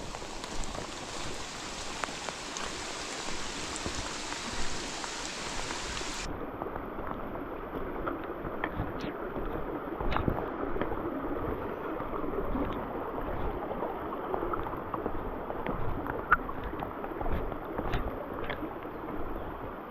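Steady rushing of water in a rain-soaked forest, with scattered sharp taps of drops from about six seconds in.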